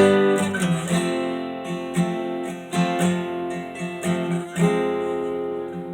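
1967 Gibson Gospel flat-top acoustic guitar being played, freshly repaired with its neck reglued, a new saddle and fresh setup: a loud strummed chord at the start, then several more strummed and picked chords, each left to ring and fade.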